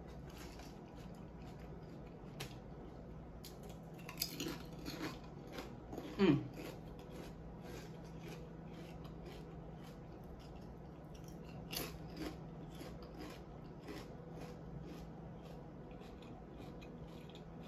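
Faint chewing of food with small crunches, the jaw clicks coming about twice a second for much of the time. About six seconds in there is one short hum of the voice, falling in pitch, louder than the chewing.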